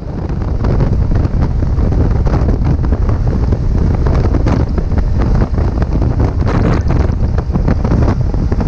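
Heavy wind noise buffeting the microphone of a motorcycle moving at road speed, a dense low rumble that comes in suddenly.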